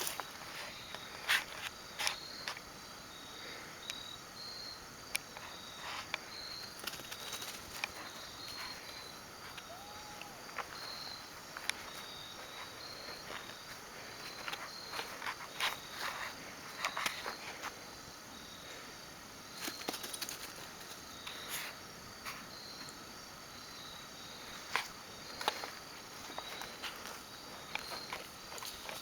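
Insects chirping in short, high repeated pulses, with scattered light clicks and rustles over them.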